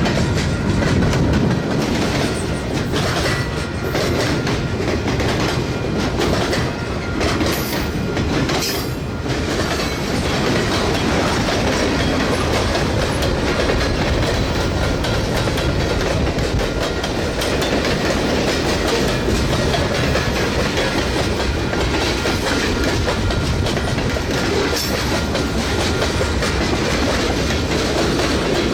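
Freight train rolling past, a steady noise of its cars' wheels on the rails throughout.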